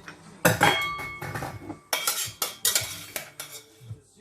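Metal kitchen utensils knocking, clinking and scraping against dishes and a pan while food is served onto a plate: a run of sharp knocks, the loudest about half a second in with a brief ringing, more around the middle.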